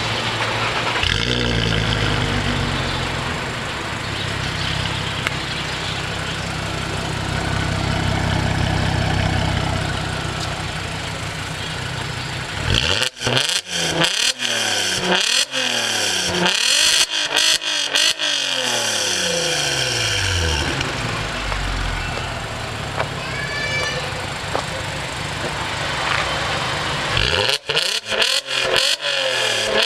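VW Golf R32 (Mk5, 2007) 3.2-litre VR6 heard through an exhaust with the resonator deleted, running at a steady idle and then blipped in quick, sharp throttle revs that fall back toward idle each time. There is one long run of about half a dozen revs in the middle and a shorter cluster near the end.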